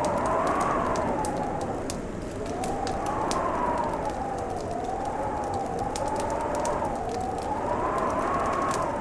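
Fireplace crackling with frequent sharp pops over a steady hiss, under a howling wind whose whistle slowly rises and falls in pitch.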